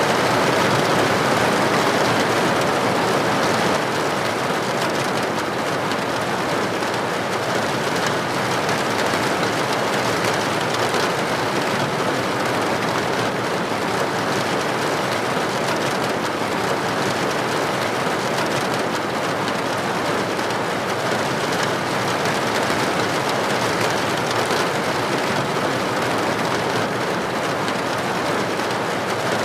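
Steady heavy rain falling on a hard surface, a dense even hiss of many small drop impacts.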